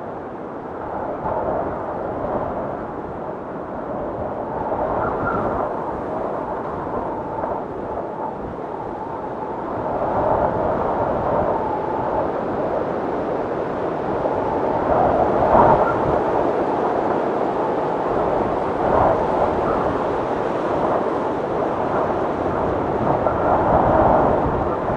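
Blizzard wind blowing in gusts, rising and falling in waves, with a faint high whistle now and then.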